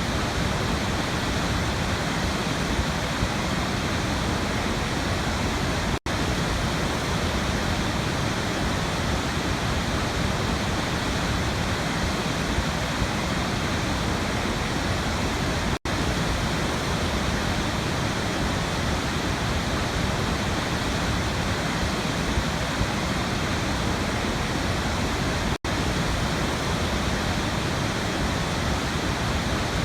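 Waterfall rushing in a steady, even roar, cut by three momentary dropouts about ten seconds apart.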